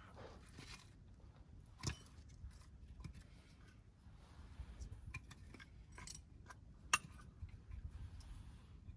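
Scattered light clicks and small knocks of objects being handled, with two sharper clicks about two seconds in and near seven seconds.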